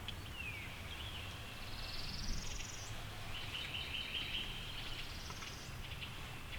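Small songbirds singing in the woods: a short falling whistle near the start, a rising high trill about two seconds in, and a buzzy trill a little later, over a steady low background rumble.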